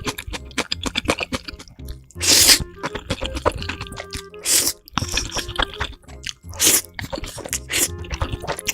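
Close-miked eating of spicy noodles: wet chewing clicks, with loud slurps about every two seconds, four in all. Background music plays underneath.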